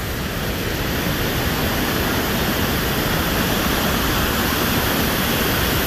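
Waterfall, the creek's rushing water falling as a steady roar of noise with no breaks.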